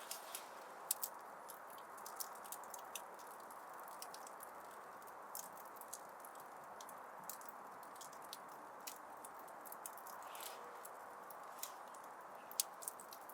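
Wood fire crackling in a fireplace: irregular sharp pops and snaps over a steady soft hiss, with the loudest pops about a second in and near the end.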